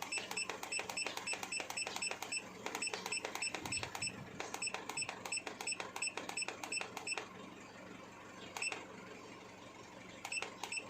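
Handheld diagnostic scan tool keypad beeping rapidly as its button is pressed repeatedly to scroll through the live data list, in fast runs of about five short beeps a second, then a few single beeps near the end.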